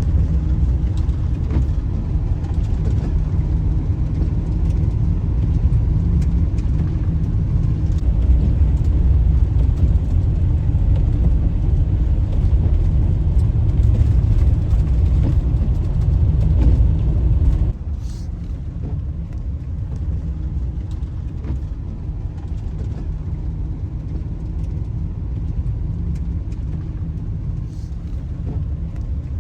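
A van being driven: a steady low rumble of engine and road noise. It drops suddenly to a quieter level about two-thirds of the way through and carries on.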